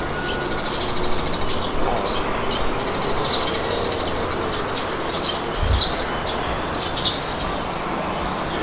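Wind blowing steadily, with birds chirping in short calls every second or two and a low thump about halfway through.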